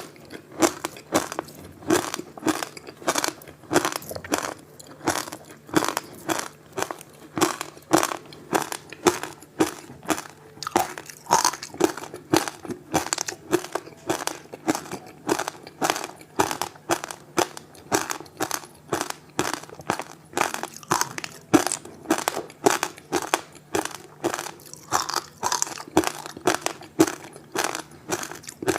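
Frozen passion fruit ice with sesame seeds being bitten and chewed. The close crunching repeats about two to three times a second.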